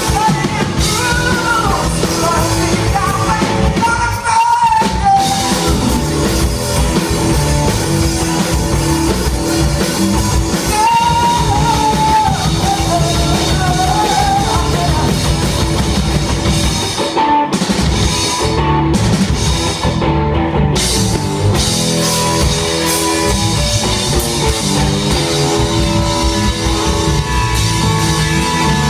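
Rock band playing live: drum kit and amplified instruments at full volume, with a singer's voice carrying the melody at times in the first half.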